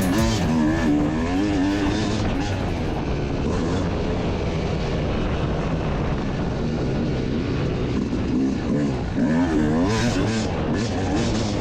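Motocross dirt bike engine revving up and down as it is ridden, the pitch swinging repeatedly with throttle and gear changes, over rumbling wind and track noise.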